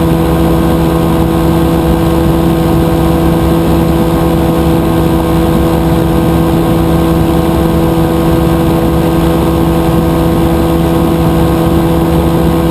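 Rotax 582 two-stroke twin engine of a powered parachute running loud at a steady, unchanging speed.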